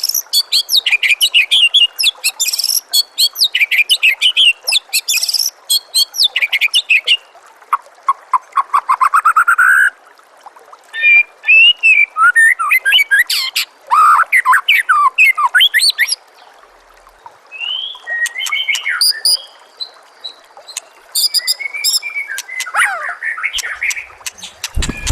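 White-rumped shama (murai batu) singing: a long, varied run of whistled phrases, fast trills and sharp chattering notes, broken by a few short pauses, over a steady trickle of running water.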